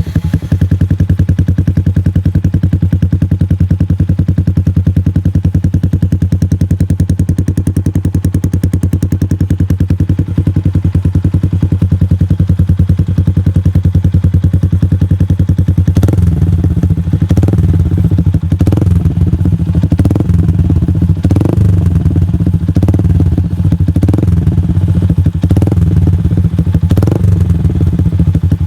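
Yamaha New Vixion 2015's 150 cc single-cylinder engine through a custom Akrapovic GP Lorenzo-style aftermarket exhaust, idling steadily with an even exhaust pulse. About halfway through, the throttle starts being blipped, giving short revs one after another until the end.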